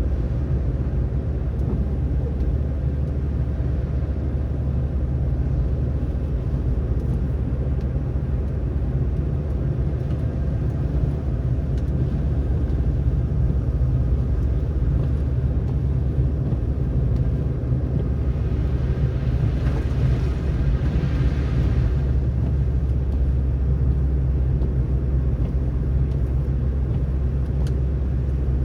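Steady low rumble of a car's engine and tyres while driving on snowy roads, with a brief rush of hiss about two-thirds of the way through.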